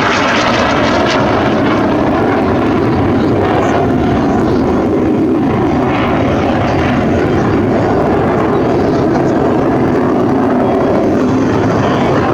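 BAE Hawk jet trainers in flight, a loud, steady engine noise with no clear pitch.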